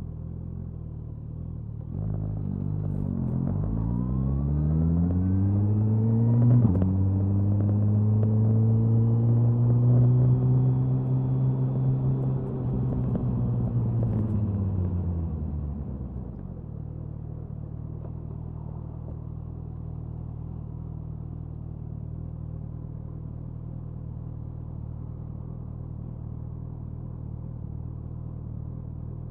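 Suzuki Hayabusa's inline-four engine, recorded at the exhaust, runs steadily and low at first. About two seconds in it pulls hard, revs climbing, and shifts up once with a sharp crack at the change. It pulls on, then the revs fall away and it settles back to a steady low running note for the rest of the time.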